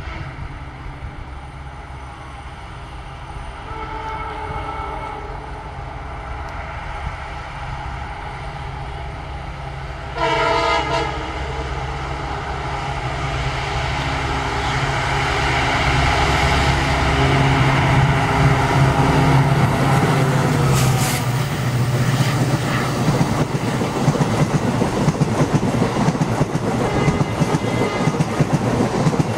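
Indian Railways diesel locomotive hauling a passenger train at speed, with a single short horn blast about ten seconds in. Its engine drone then builds as it nears and passes. In the last few seconds the coaches rush past with a rapid clickety-clack of wheels on the track.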